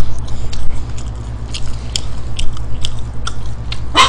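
Close-mic chewing of McDonald's French fries: small wet mouth clicks and smacks, with a louder smack near the end, over a steady low hum.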